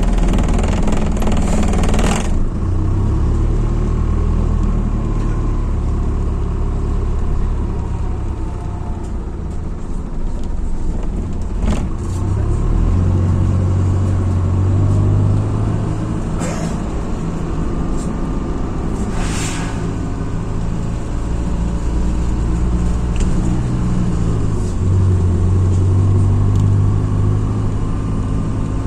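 MAZ-206 city bus's diesel engine running under way, its pitch rising and falling as the bus speeds up and slows down. A loud hiss cuts off suddenly about two seconds in, and a few short hisses follow later.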